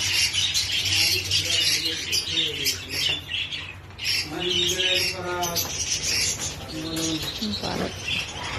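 A large group of lovebirds and parrots chattering and squawking together in a continuous, dense, high-pitched din.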